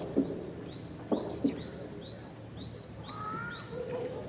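Hammer blows, four knocks in two quick pairs, the loudest sounds here, over a small bird chirping rapidly at about three chirps a second. A lower, drawn-out call comes a little past the three-second mark.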